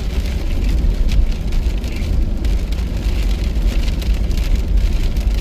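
Heavy rain pattering on the car's body and windscreen, heard from inside the cabin, over the steady low rumble of the car driving on a wet road.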